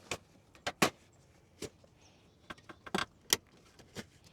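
Irregular sharp clicks and taps of hard plastic being handled, about a dozen, the loudest just under a second in and a few seconds in, as a headlight bulb and its socket are twisted and worked loose from the headlight housing.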